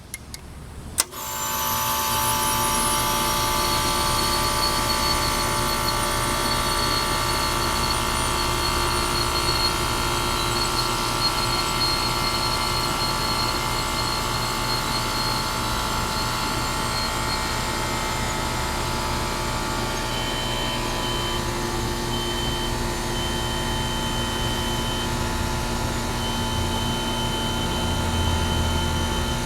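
Coleman heat pump system switched back on: a sharp click about a second in, then the unit starts up and runs steadily, a loud hum made of several steady tones. A faint high whine comes and goes in the later part.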